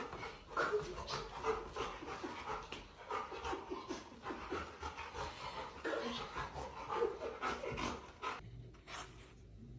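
A dog panting in quick, even breaths, stopping about eight seconds in.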